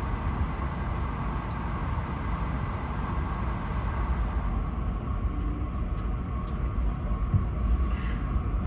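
Steady low rumble and air rush inside the cabin of an Airbus A220-300, with a faint steady tone; a thin high hiss drops away about halfway through.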